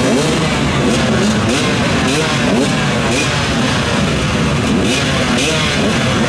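Many motorcycle and quad engines running and revving together, their pitches rising and falling over one another.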